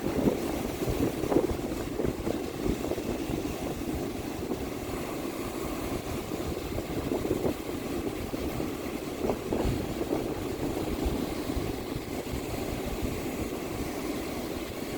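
Ocean surf washing onto the beach with wind buffeting the microphone: a steady rushing noise with irregular low rumbles and a few stronger surges.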